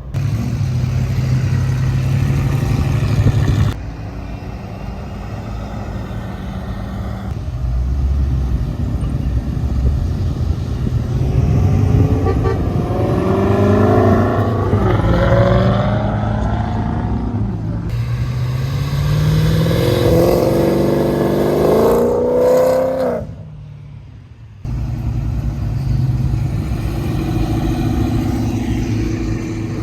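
Muscle car engines running and revving hard, the pitch repeatedly climbing and dropping back. The sound breaks off abruptly several times.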